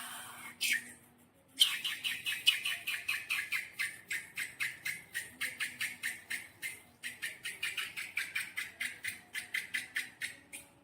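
Slime being squeezed and kneaded by hand, giving a fast, even run of short wet squelches and clicks, about four or five a second, that stops just before the end.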